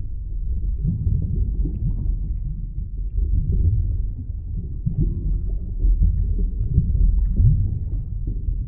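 Deep underwater ambience: a steady low rumble with short, low sweeps that rise in pitch, several of them scattered through it.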